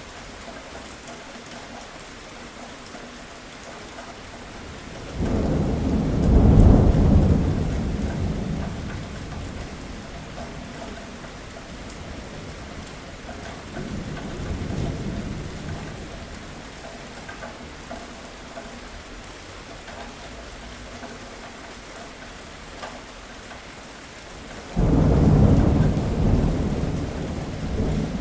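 Steady rain falling, broken by rolling thunder: a sudden low rumble about five seconds in that swells and fades slowly, a weaker roll in the middle, and a second loud clap and rumble near the end.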